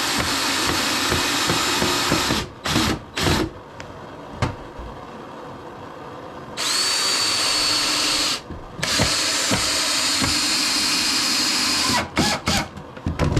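Power drill driving screws into wood: three runs of two to three seconds each, separated by short trigger bursts and small knocks, one run opening with a rising whine as the motor spins up.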